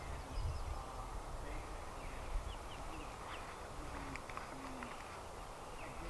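Outdoor ambience with birds calling: scattered short high chirps over a faint steady background hiss.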